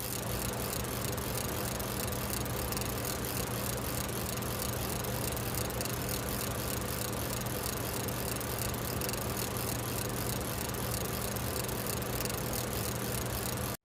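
Parrot AR.Drone 2.0 quadcopter's electric motors and propellers whirring steadily in flight, a low hum with a faint fast rattle.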